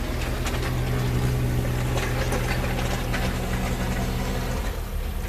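An engine running steadily, with scattered clanks and knocks. Its steady hum cuts off near the end, leaving a low rumble.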